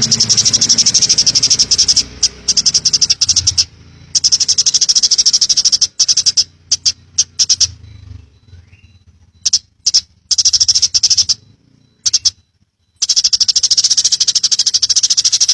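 Eurasian tree sparrow (burung gereja) giving a rapid, machine-gun-like chattering trill, many chirps a second. It comes in runs of one to two seconds with brief pauses between them.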